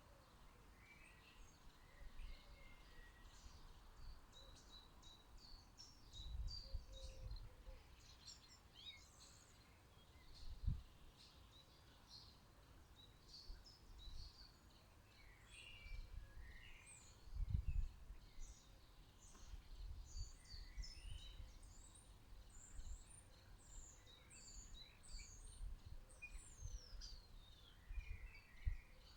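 Small garden songbirds chirping and twittering faintly, many short high calls scattered throughout. Occasional low thumps, the loudest about eleven and eighteen seconds in.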